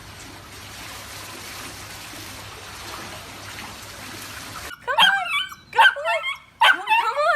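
A faint steady background hiss. About two-thirds of the way in, a dog starts vocalising loudly in a quick run of short calls that slide up and down in pitch.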